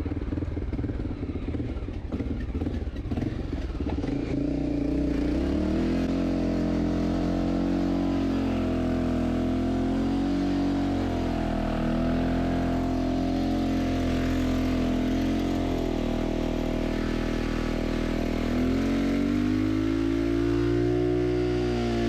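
Honda XR600R's single-cylinder four-stroke engine held at high revs for a rear-tire burnout. Its pitch climbs over the first few seconds, wavers while held, dips briefly and rises again near the end.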